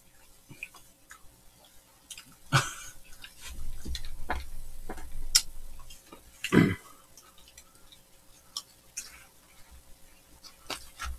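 Close-up eating sounds: flaky croissant pastry crackling and crunching as it is bitten and chewed, with many small scattered clicks and a few louder crunches around the middle.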